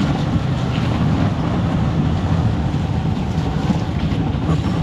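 Motorcycle engine running steadily while riding at low speed, about 25 km/h, mixed with wind rumbling on the microphone.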